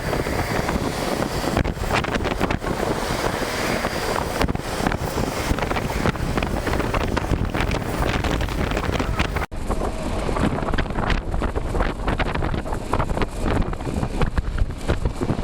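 Heavy wind buffeting the microphone, rough and continuous. About nine and a half seconds in it breaks off for an instant, then carries on with less hiss in the highs.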